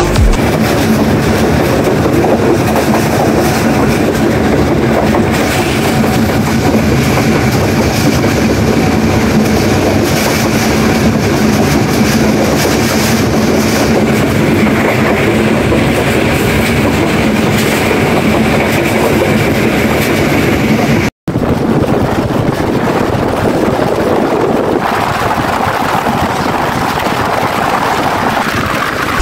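Pakistan Railways' Tezgam Express passenger coach running at speed, heard from an open coach door: a loud, steady rush of wheels on the track. The sound drops out for an instant about two-thirds of the way through, and it is a little brighter and thinner afterwards.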